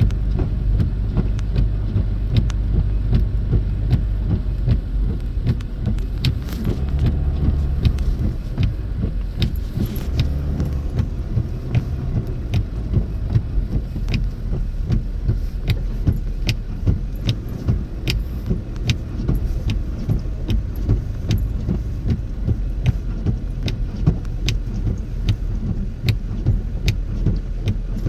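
Car cabin noise while driving slowly on a snowy road: a steady low drone from the engine and tyres, with many short sharp ticks and clicks throughout.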